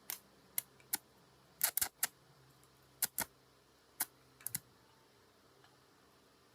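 Irregular sharp clicks and taps, about a dozen, some in quick pairs, over a faint steady low hum.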